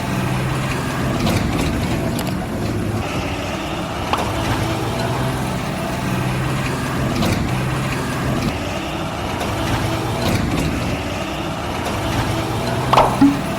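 Heavy vehicle engine running steadily, a truck or tractor engine sound with a low hum and a few faint clicks.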